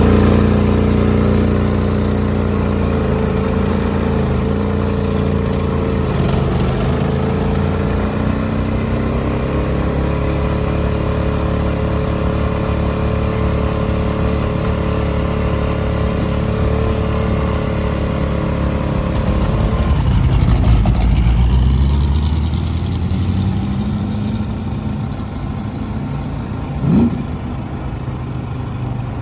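A vehicle engine running steadily, then surging louder about two-thirds of the way through before settling to a lower, quieter note. A brief sharp sound comes near the end.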